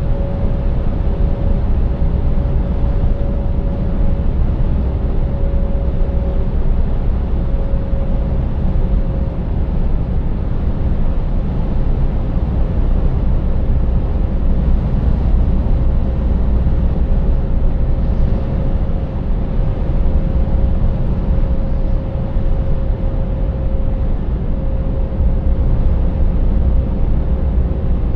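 Scania 590S truck's 16-litre V8 diesel running steadily while driving, a deep even drone with a faint steady whine above it.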